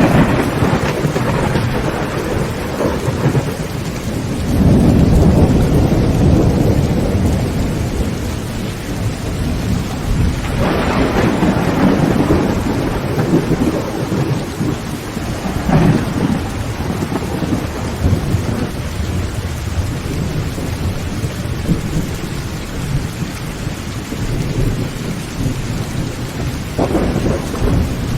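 Heavy rain beating on a tin roof, with thunder breaking over it: long low rumbles about five and eleven seconds in, and sharper cracks of thunder around sixteen seconds and near the end.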